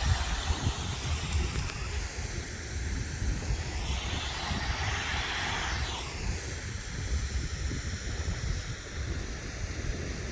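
Wind buffeting the phone's microphone in low gusty rumbles over a steady outdoor hiss, which swells for a couple of seconds in the middle and then fades, like something passing.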